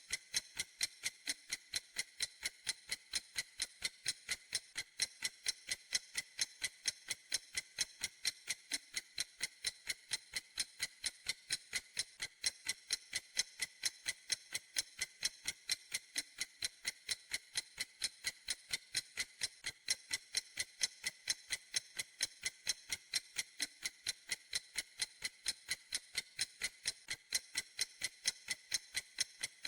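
Clock ticking: crisp, evenly spaced ticks, about three or four a second, keeping a perfectly steady rhythm.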